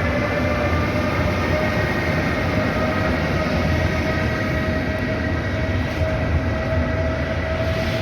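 Freight train running by: steady rumble of rolling wagons, with a high whine above it that rises slightly in pitch.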